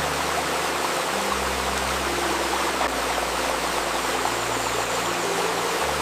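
Babbling river running steadily, with soft sustained low tones layered under it that shift to a new pitch every second or two, as in a 528 Hz healing-music mix.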